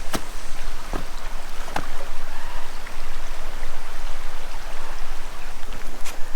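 A creek rushing steadily, with a few short clicks or knocks over it.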